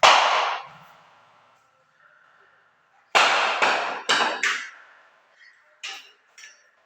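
A coconut being smashed as a puja offering: one loud hard crack at the start, then a quick run of four more cracks about three seconds in, and two small knocks near the end.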